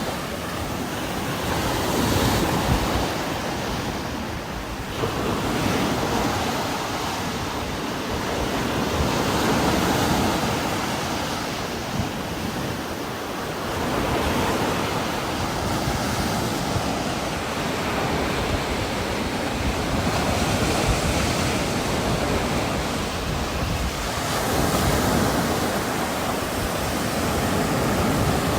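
Heavy rain and gusting wind, a continuous rushing hiss that swells and eases in slow surges every few seconds.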